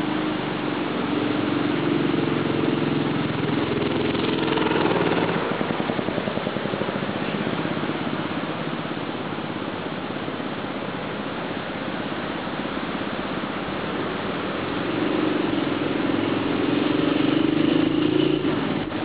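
The Briggs & Stratton 5 hp single-cylinder four-stroke engine of a homemade BMX-frame motorbike running under load while ridden. It gets louder twice, once at the start and again near the end, and its pitch drops and fades about five seconds in as the bike passes.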